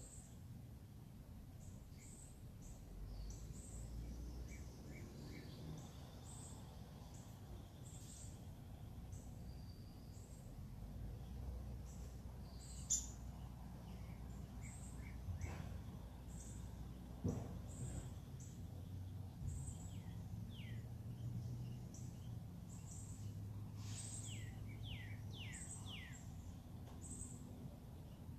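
Faint birds calling: many short, high chirps repeating throughout, then a run of quick downward-sliding calls near the end, over a low outdoor rumble. A single sharp click sounds about halfway through.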